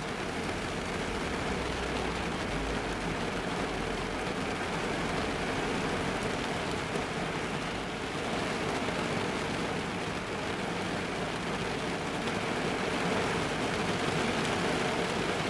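Steady heavy rain drumming on a car's roof and windows, heard from inside the car.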